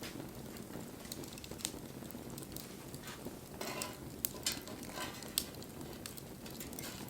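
Wood fire burning: a steady low noise of flame with frequent sharp crackles and pops. The loudest few snaps come in the second half.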